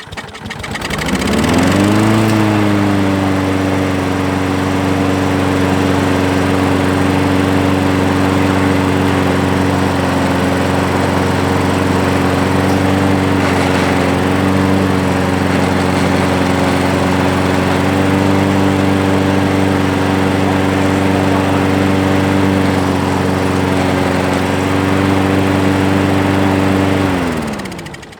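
Craftsman 6.5 hp self-propelled push mower's single-cylinder engine catching about a second in, rising in speed, then running steadily before it winds down and stops near the end. This is its first run after sitting for about five years, on freshly added gasoline with the air filter off.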